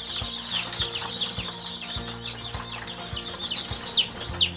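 A brood of day-old chicks peeping: many short, high chirps overlapping, each falling in pitch, with a few louder ones near the end.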